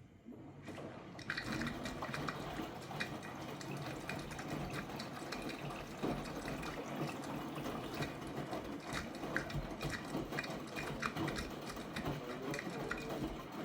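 V-ZUG Adora washing machine running, with water splashing and sloshing in the drum over the hum of its motor and many small knocks. It starts up about a second in and then keeps on steadily.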